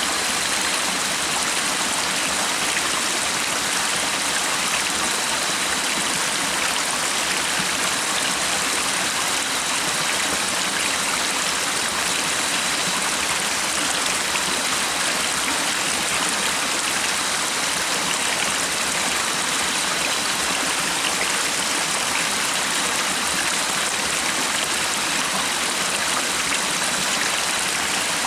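Stream water flowing in a steady, even rush with no change in level.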